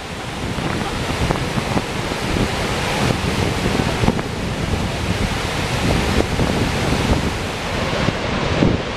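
Gullfoss waterfall's steady rush of falling water, with wind buffeting the microphone.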